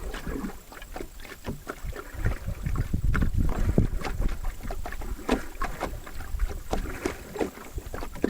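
Paddling a canoe: irregular paddle strokes and water splashing and knocking around the hull, over a low wind rumble on the microphone.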